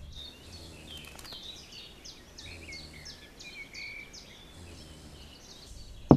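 Birds chirping, a steady scatter of short, high, repeated calls over a faint low hum.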